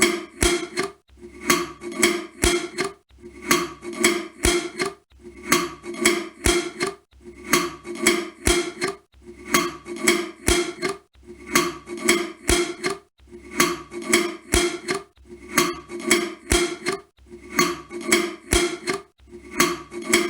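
A jar lid being screwed shut: a quick cluster of clicks and scrapes with a short ring, repeated about every two seconds.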